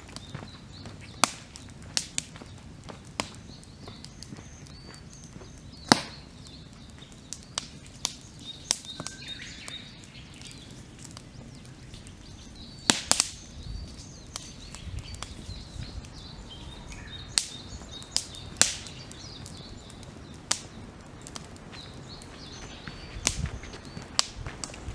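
Wood campfire crackling, with sharp pops at irregular intervals, a few of them much louder than the rest. Faint bird calls sound in the background.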